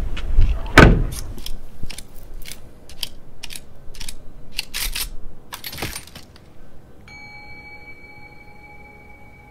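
Car door and key sound effects: a loud thump about a second in, then a run of clicks and metallic jangles, and from about seven seconds a steady high tone.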